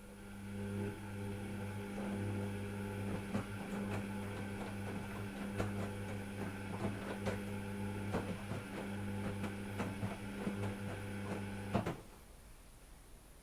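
Washing machine running: a steady motor hum with scattered clicks and rattles, cutting off abruptly about a second before the end.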